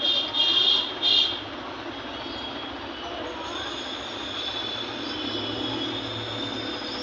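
Harmonium reeds sounding: two short, loud chords about a second apart, then a quieter chord held steadily.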